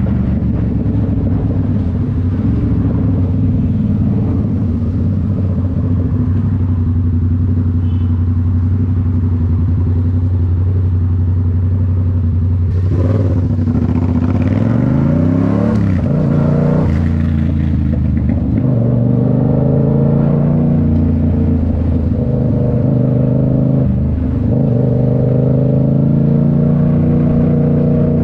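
Yamaha MT-07's 689 cc parallel-twin engine through a Toce full exhaust, running at steady revs while riding. About halfway through, the revs climb for a few seconds, then the engine settles back into steady running.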